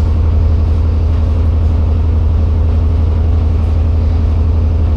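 Washing machine spinning its drum in the spin-dry cycle: a loud, steady low hum.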